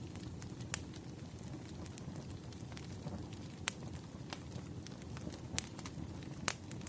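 Campfire crackling: a steady low rumble of burning with scattered sharp pops, four of them louder than the rest.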